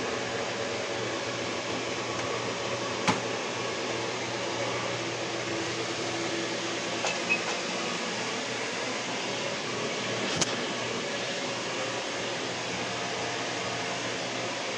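A fan or air-conditioning unit running steadily, with three brief sharp ticks.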